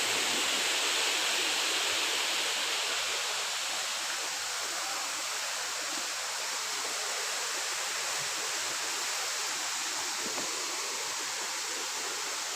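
Waterfall and stream water rushing steadily, easing slightly in level a few seconds in.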